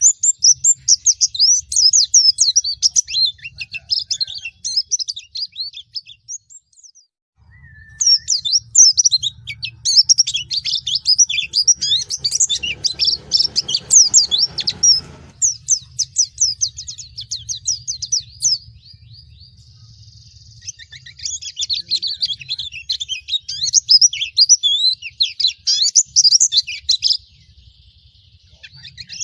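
A pleci (white-eye) singing long, fast twittering phrases of high chirps, with short pauses about six seconds in and again near the end.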